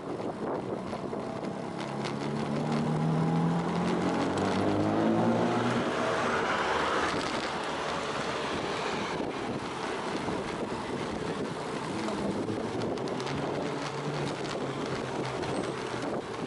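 Steady wind rush on the microphone of a moving bicycle. Over it, a car engine in the next lane rises in pitch as it accelerates, from about two seconds in to about seven, and is loudest in the middle of that stretch.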